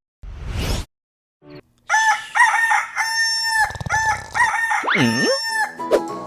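A rooster crowing: one long cock-a-doodle-doo lasting about four seconds, with a swooping slide in pitch near its end. A short burst of noise comes just before it, near the start.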